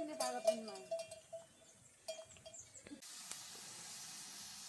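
An animal bell clanking and ringing for about the first second, then quiet until about three seconds in, when a steady hiss of heavy rain starts suddenly.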